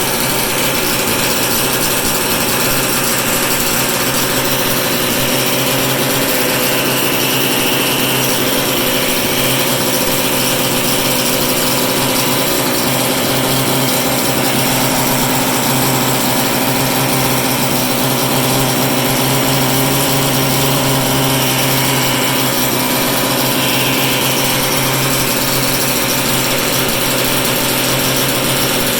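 Hybrid engine running steadily at constant speed: a dense mechanical drone with a low hum that grows a little stronger midway.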